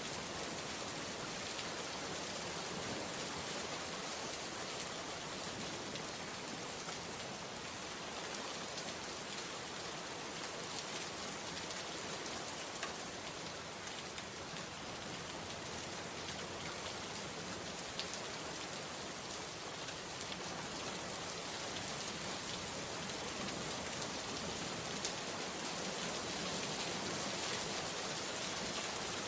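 Steady rain falling, a dense even patter with scattered individual drops ticking on a surface.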